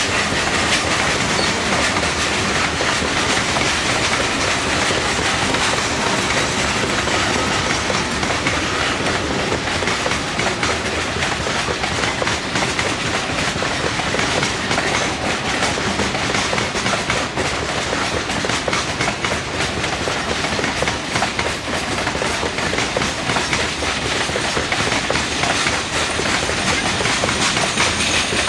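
Coal train's freight cars rolling steadily past, steel wheels clicking over the rail joints, with a faint high squeal from the wheels near the start.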